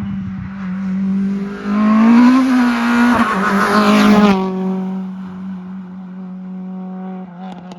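Rally car engine held at high revs as the car passes close by. The sound is loudest between about two and four seconds in, with tyre noise, then drops to a steadier, quieter note as the car moves away.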